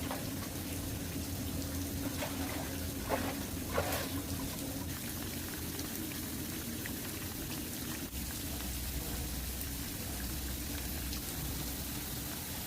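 Steady patter and rush of water, like rain or running water, with a few brief louder splashy sounds about two to four seconds in.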